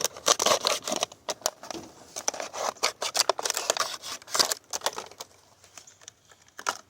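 Plastic soda bottle being cut open with a stiletto knife blade: a run of crackles, scrapes and clicks as the plastic is sliced, thinning out over the last couple of seconds.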